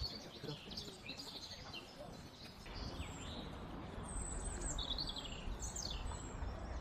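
Songbirds chirping and calling, with short high notes and a few quick falling whistles, over a steady outdoor background hum and a low rumble.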